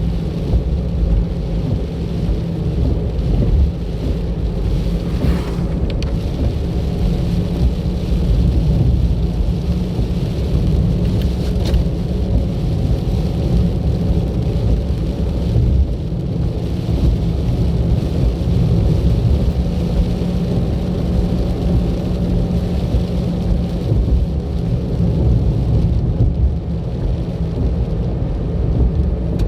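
Steady low rumble of a car driving: engine and tyre noise on the road, unbroken throughout.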